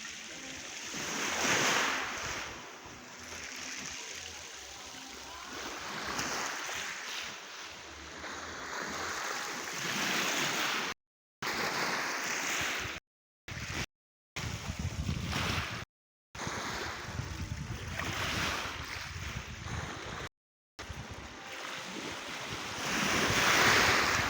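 Black Sea waves breaking on the shore and washing back, swelling loudest about two seconds in and again near the end. The sound drops out to silence five times for a moment in the middle.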